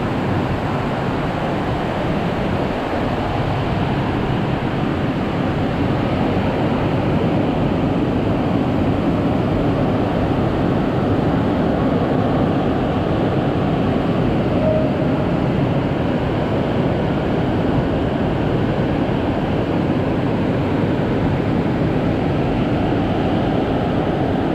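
Heavy rain falling in strong gusting wind: a loud, steady, unbroken noise.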